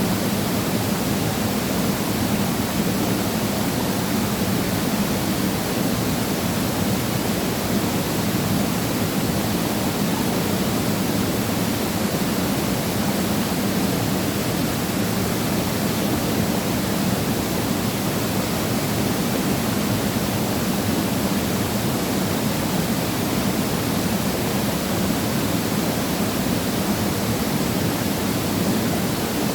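Waterfall crashing steadily into a pool, a constant, unchanging rush of falling water.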